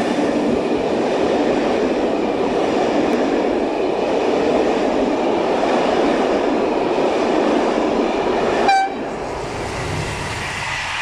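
A locomotive-hauled passenger train of Corail-style coaches rolls past at speed, with a steady rumble of wheels on rail. About nine seconds in, a train horn gives one very short toot, and the rumble then drops off as the train moves away.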